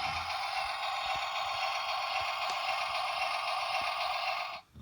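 Toy grain auger's mechanism running steadily as pretend grain is moved through it, stopping suddenly near the end.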